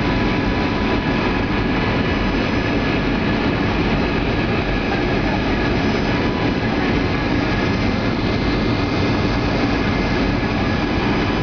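Boeing 757-200 airliner on final approach: a steady, constant rush of engine and airflow noise, with faint steady whining tones.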